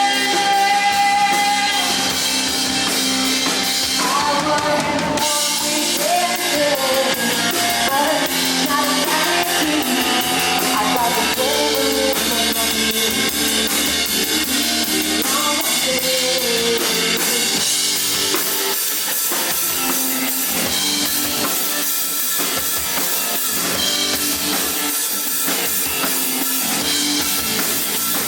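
Live indie rock band playing an instrumental passage: drum kit, guitars and bass. A melodic line rises and falls over the band through the first half, and the drums and guitars carry on to the end.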